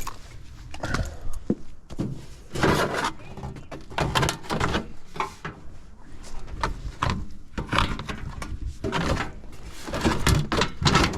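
A series of irregular clunks, knocks and rattles of hard objects being handled, each short, with the loudest groups about a third of the way in, just before halfway, and near the end.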